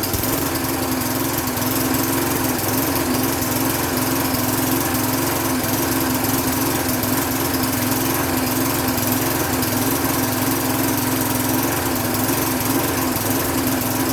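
Push lawn mower's small engine running steadily after starting on the first pull, with its carburetor just cleaned. It is running a little rough, which the owner puts down to air still in the fuel system or a leaking intake gasket.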